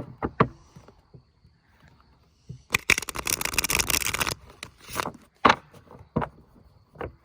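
Tarot cards being shuffled by hand: a few sharp taps and slaps of the cards, then a rapid flutter of cards lasting about a second and a half, followed by more single taps.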